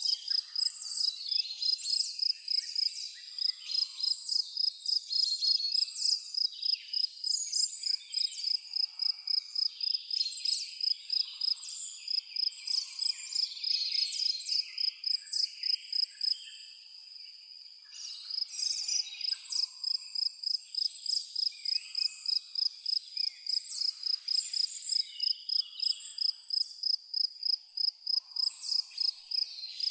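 A cricket chirping in rapid, even pulses at one high pitch, stopping for about two seconds past the middle, while several birds sing and call over it.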